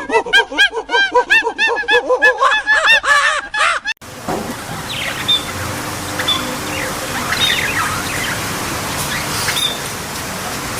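A bird giving a quick run of harsh, arching calls that cuts off abruptly about four seconds in, followed by small birds chirping over a steady outdoor background hiss.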